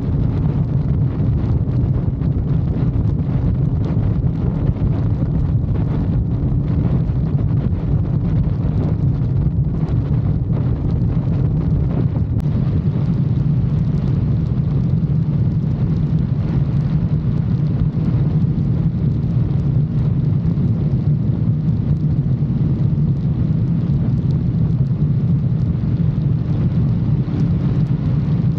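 Motorcycle engine running steadily at an even cruising speed, with wind noise over the microphone.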